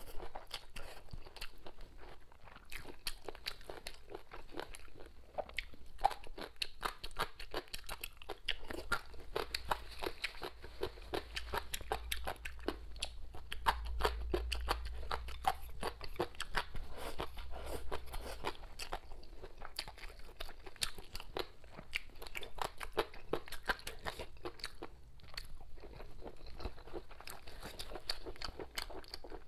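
A person chewing and crunching food close to the microphone, with a steady run of small crisp clicks.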